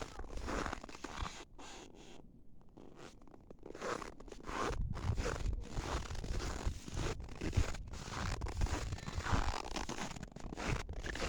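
Footsteps in dry, frosty snow, each step creaking loudly underfoot at a steady walking pace. The steps are quieter for a couple of seconds near the start, then come regularly.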